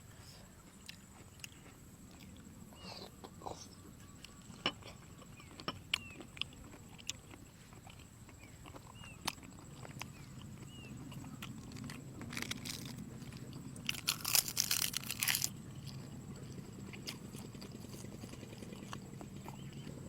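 Close-up chewing and biting of soy-sauce-pickled seafood, with scattered wet clicks and crunches and a louder stretch of crunching about fourteen seconds in.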